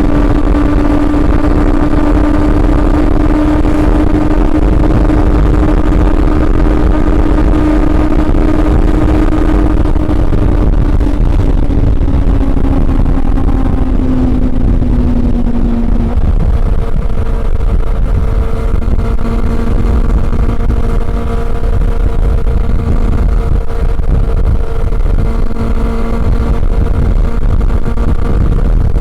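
Honda CB400 Super Four inline-four motorcycle engine running under way at a steady note, over a heavy low rumble. Its pitch eases down between about ten and sixteen seconds in, then it holds a new steady note.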